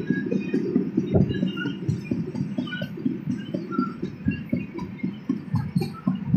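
A passenger train coach running at speed: a steady low rumble of steel wheels on rail, broken by frequent irregular knocks and rattles from the wheels and coach.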